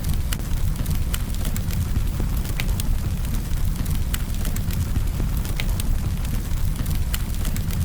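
Campfire burning, with a steady low rumble of the flames and sharp crackles and pops about once or twice a second.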